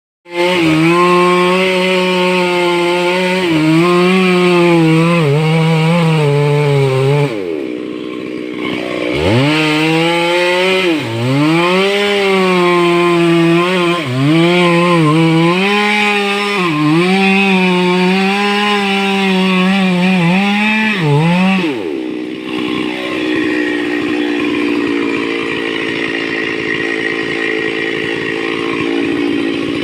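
Stihl two-stroke chainsaw running near full throttle, its pitch dipping and recovering again and again as the chain bites into wood. The revs fall away about seven seconds in, climb back about two seconds later, and drop again a little past twenty seconds.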